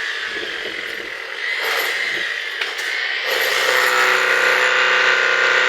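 Heavy rain pouring down in a steady hiss. About three seconds in, the steady hum of an engine joins it and the sound grows louder.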